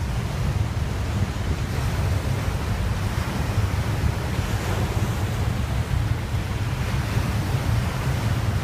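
Wind buffeting the microphone as a steady, gusty low rumble over a constant rushing noise.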